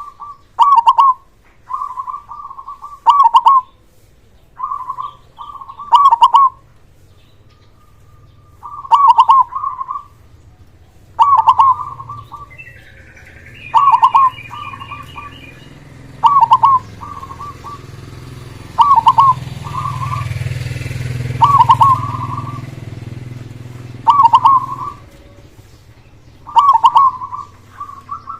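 Zebra dove (perkutut) singing its short, trilled cooing phrase over and over, one phrase every one to three seconds. A low rumble swells in the background in the second half and fades near the end.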